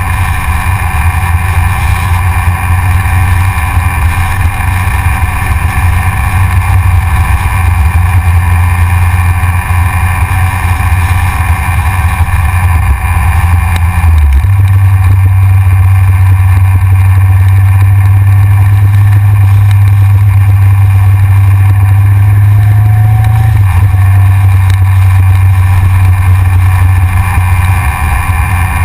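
Yamaha XJR's inline-four engine running steadily under way, heard from a GoPro mounted on the front of the bike. The low engine drone steps up louder and slightly higher about halfway through, then eases back a little near the end.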